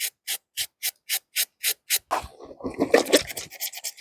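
Wet laundry being scrubbed with a brush: short scraping strokes at about four a second, then a stretch of faster, denser scrubbing about two seconds in, then strokes again near the end.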